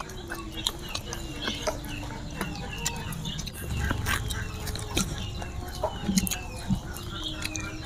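Chewing on round fried tofu, a run of soft clicks and smacks of the mouth, with short animal calls in the background.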